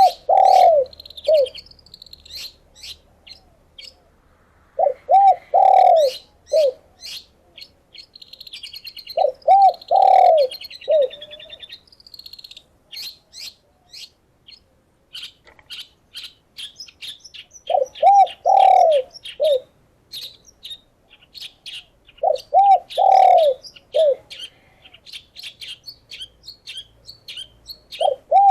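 A dove cooing in phrases of three or four low notes, repeated every four to five seconds, over a constant stream of quick, high chirps and tweets from small songbirds.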